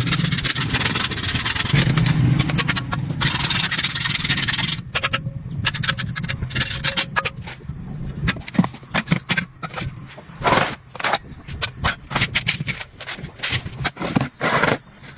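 Continuous scraping and rubbing, with a low hum under it, for about the first five seconds, then scattered clicks, knocks and short scrapes: hand work on the parts of a water pump being repaired.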